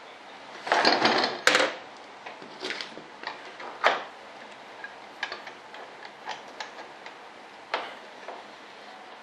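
Workbench handling noises: a loud scraping rustle about a second in, then scattered light clicks and taps as tools and duct material are handled.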